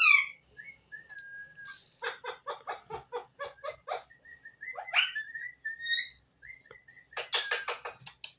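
Pet parrot calling: a swooping whistled note, a harsh hiss, then a quick run of about ten short repeated notes, another swooping call, faint chirps and a fast chattering burst near the end.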